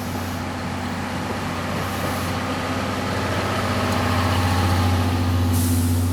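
Steam locomotive C58 363 and its 12-series coaches running under power, a steady low hum and rumble that grows louder.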